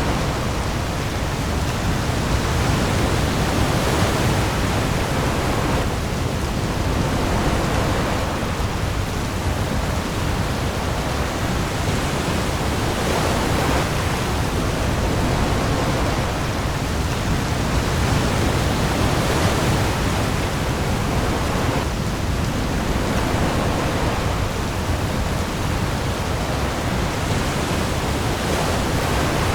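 Heavy rain falling on the open sea with waves: a dense, steady hiss that swells gently every few seconds over a deep low rumble.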